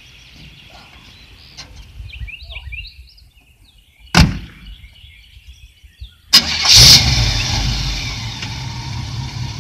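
A car door slams shut. About two seconds later the 1933 Ford five-window coupe's engine starts with a short loud burst and settles into steady running. Birds chirp faintly before the door closes.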